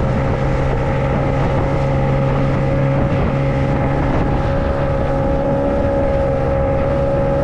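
Motorboat engine running steadily at a constant pitch while the boat is under way, with wind on the microphone.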